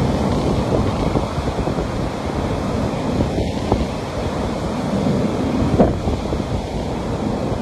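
Ocean surf breaking and washing on a beach in a steady rush, with wind buffeting the microphone.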